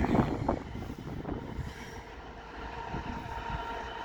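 Class 66 diesel freight locomotive running past on its two-stroke V12 engine, a low rumble with a faint steady tone, mixed with wind buffeting the microphone.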